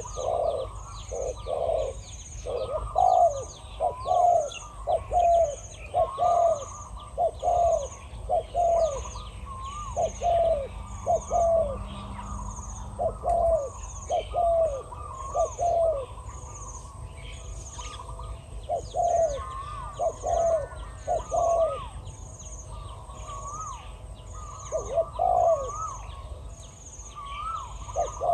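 Spotted doves cooing in repeated phrases of low, wavering coos, more than one bird calling so that phrases overlap and answer each other: a wild dove with a big voice and a decoy dove. Behind them a short high chirp repeats evenly, a little more than once a second.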